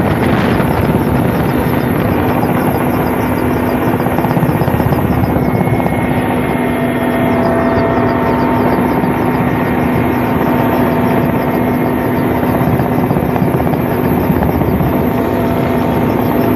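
Helicopter running steadily overhead, its engine and rotor making a constant droning hum with a fast flutter.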